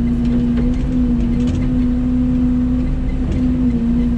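Mini excavator's diesel engine running steadily, a constant hum that wavers only slightly in pitch, with a few faint ticks over it.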